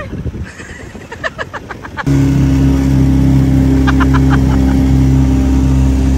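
The jeep's engine running steadily, heard from inside the vehicle. It comes in suddenly about two seconds in, after a quieter stretch with a few short chirps.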